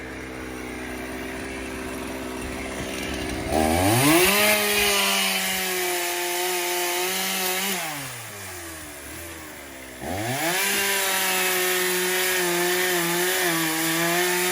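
Two-stroke chainsaw idling, then revved up to full speed and held for about four seconds, dropping back to idle, then revved up again and held, its pitch dipping slightly as the chain bites into oak logs.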